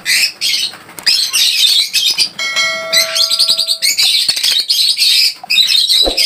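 Many caged birds chirping and twittering rapidly. A steady ringing tone with a bell-like timbre starts about two seconds in and lasts about a second and a half.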